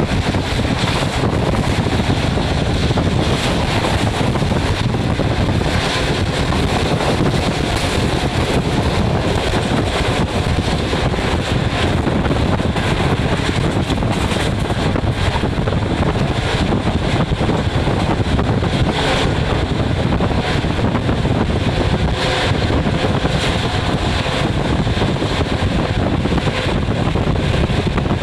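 Steady rushing noise of a moving train heard from inside the carriage, with wind buffeting the microphone.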